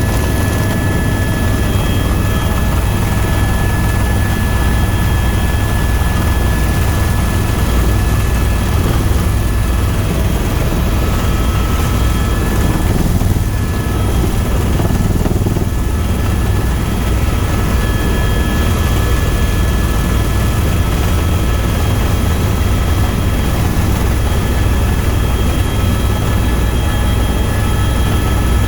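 Tour helicopter in flight, its rotor and turbine engine running in a loud, steady drone with a few steady whining tones over it.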